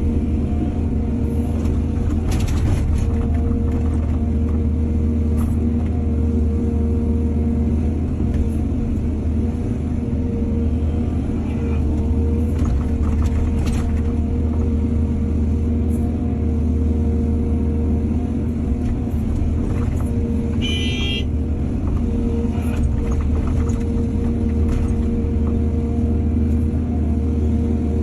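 Excavator's diesel engine running steadily with a constant low drone, broken by a few short knocks and a brief high-pitched squeal about three-quarters of the way through.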